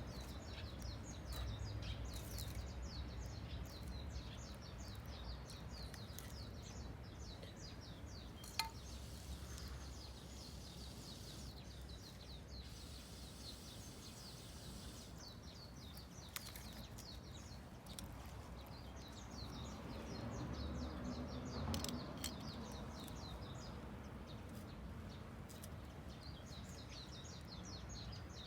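Birds chirping in quick, repeated short notes over a steady low outdoor rumble, with a few single sharp crackles.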